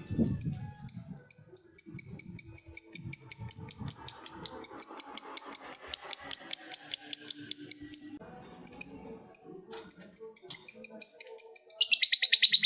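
Lovebird giving its long 'ngekek' chattering call: a rapid run of sharp, high notes at about seven a second, held for several seconds. It breaks off briefly about eight seconds in, resumes, and turns into a denser, wider chatter near the end.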